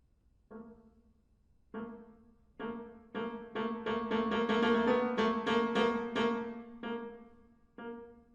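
Piano striking one repeated chord in separate attacks, spaced out at first, then quickening and swelling to a dense, loud cluster about halfway through before slowing and dying away again.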